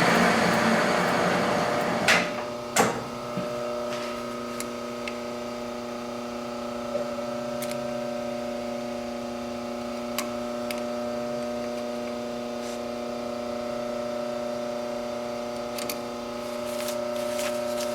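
Metal lathe running at a steady speed: a hum made of several steady tones, with a noisy hiss fading over the first couple of seconds and two sharp clicks about two and three seconds in.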